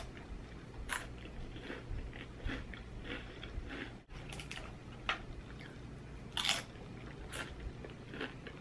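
A person biting and chewing crunchy Hot Cheetos and Doritos nacho chips loaded with queso, a run of short crisp crunches at irregular intervals.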